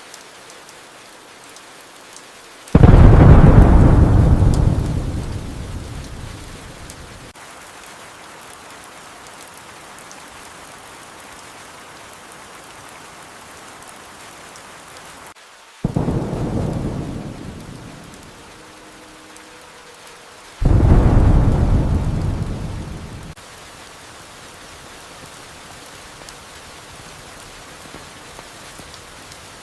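Steady rain with three claps of thunder, each starting suddenly and rumbling away over a few seconds: the loudest about three seconds in, a weaker one around the middle, and another loud one shortly after.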